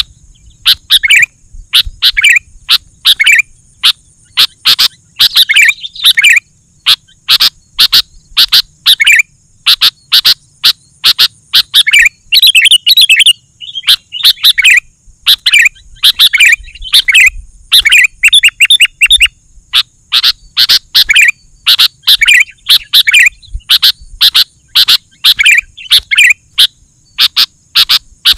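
Sooty-headed bulbul calling: loud, short bursts of quick chattering notes repeated over and over with brief gaps between phrases.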